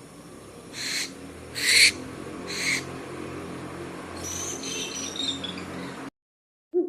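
Owl calling: three short, harsh, noisy calls a little under a second apart, followed a couple of seconds later by a thinner, higher chittering call. The sound cuts off abruptly near the end.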